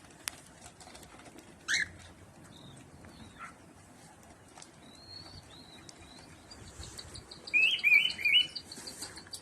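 Cockatiel chirping and whistling in short sliding notes, with a louder run of quick chirps about three-quarters of the way through. A faint rapid ticking joins in over the last few seconds.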